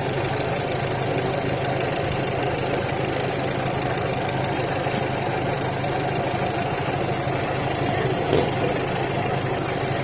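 A vehicle engine running steadily, an even hum that does not change.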